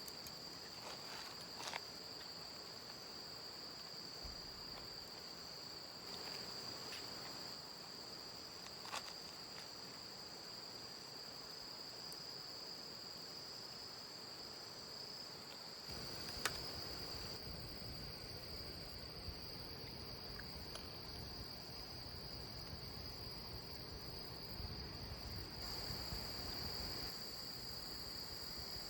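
Night insects, crickets, chirring in one steady, unbroken high-pitched drone, with a few sharp clicks scattered through and a low rumble joining about halfway in.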